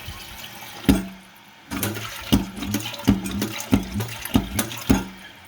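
American Standard toilet flushing and its tank emptying, with the flapper working as it should. A sharp click comes about a second in, then a run of low thuds about twice a second over the rushing water.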